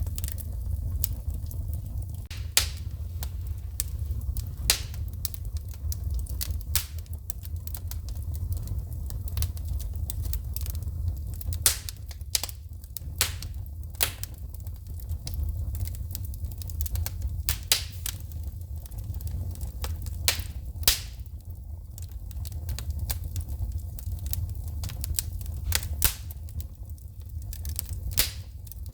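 Wood fire in a fireplace crackling, with irregular sharp pops and snaps of shooting sparks over a low steady rumble of the flames.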